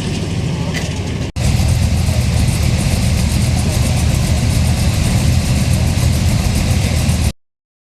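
Car engine running at a steady low idle rumble. There is a brief dropout a little over a second in, after which it is louder, and it cuts off abruptly near the end.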